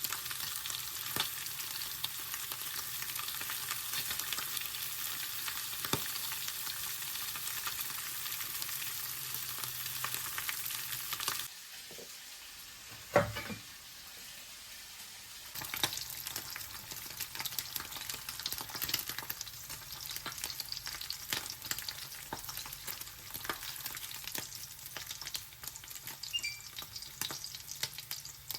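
Food sizzling and crackling in a hot frying pan. About halfway through the sizzle drops away for a few seconds, broken by one brief sharp sound, then the crackling sizzle resumes.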